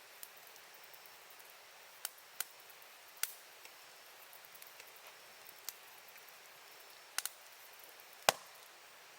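Campfire wood crackling: irregular sharp pops and snaps over a faint hiss, with the loudest pop near the end.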